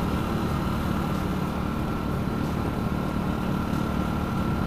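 Honda Win 100's single-cylinder four-stroke engine running evenly while the motorcycle is ridden at a steady cruising speed, with steady wind and road noise.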